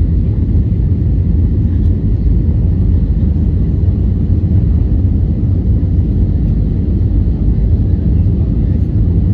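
Airbus A320 cabin noise: a steady low rumble of engines and airflow, without change.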